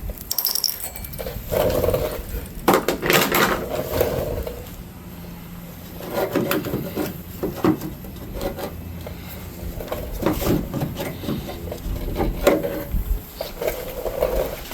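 Irregular clicks, knocks and scraping of hand work with tools and small parts, in short clusters with brief pauses.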